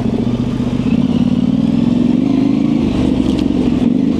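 Yamaha Ténéré 700's parallel-twin engine, fitted with an aftermarket high exhaust, running under way at a fairly steady pitch, with small rises and falls as the throttle changes.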